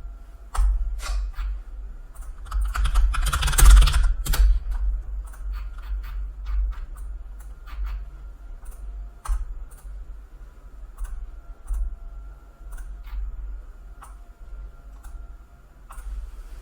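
Typing on a computer keyboard: irregular single keystrokes, with a dense flurry of keys about three to four seconds in that is the loudest part.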